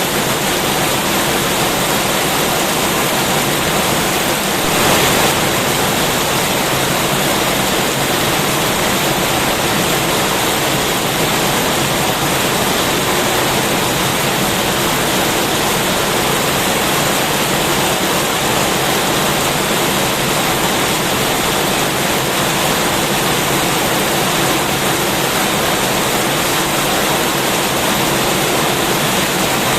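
Heavy rain falling steadily, a dense even hiss, with a brief slight swell about five seconds in.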